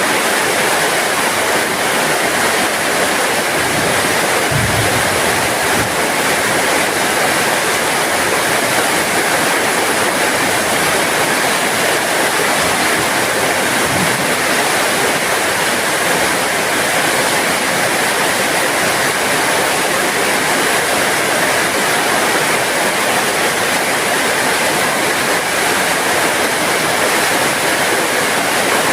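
Heavy rain falling steadily, a constant dense hiss of water, with a faint low thud about four seconds in and another about halfway through.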